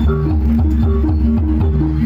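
Javanese gamelan-style dance music: a repeating melody of held pitched notes over a steady drum beat.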